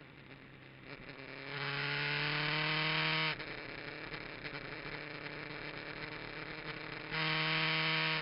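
Kawasaki GPZ900R's inline-four engine under way: the revs climb under acceleration for about two seconds, then drop suddenly as the throttle shuts. The engine runs lower for a few seconds, then pulls loud again near the end.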